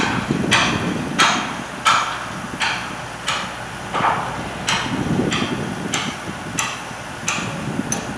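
Hammer striking steel in an even rhythm, about one and a half blows a second, driving a temporary spike out of a roller coaster track joint.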